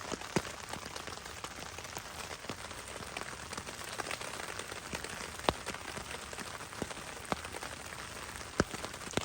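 Steady rain falling, with scattered sharp taps of single drops striking a surface nearby, three of them louder than the rest.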